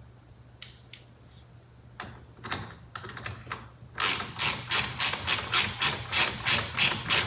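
Hand ratchet wrench clicking as it runs in a steering-wheel airbag retaining bolt. A few separate clicks come first; from about halfway in there is a steady run of quick ratcheting strokes, about four a second.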